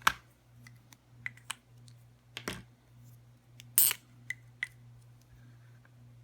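Irregular sharp plastic clicks and taps from handling Sharpie markers against a hard plastic phone case. Two louder, longer clicks come about two and a half and four seconds in, over a faint steady low hum.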